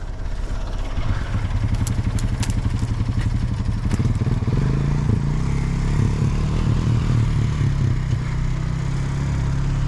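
Backhoe engine running steadily, then revving up about four seconds in as it starts to pull. There are a few light clanks about two seconds in.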